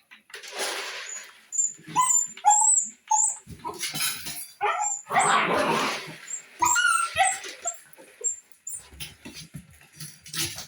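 Dog whining and yipping in many short high-pitched cries that bend up and down, broken by a few louder, harsher bursts.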